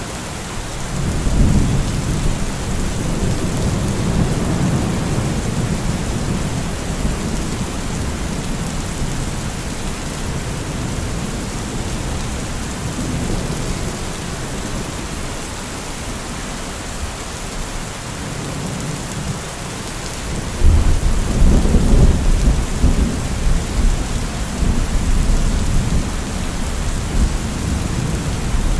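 Thunderstorm: steady heavy rain hissing, with two rolls of thunder. A low rumble swells about a second in and dies away over several seconds. A louder rumble breaks in suddenly about two-thirds of the way through and rolls on for several seconds.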